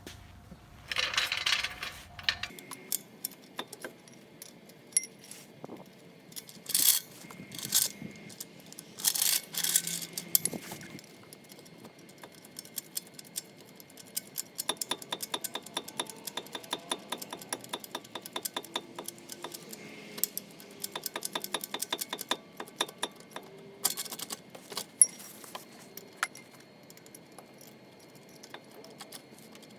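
Metal clinks, scrapes and knocks of a car jack being positioned and worked under a car, with a long run of rapid, even clicking in the middle.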